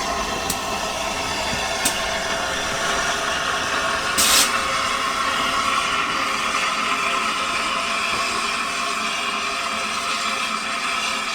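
Steady mechanical running noise of a vehicle, with a few sharp clicks early on and a short, loud rush of noise about four seconds in.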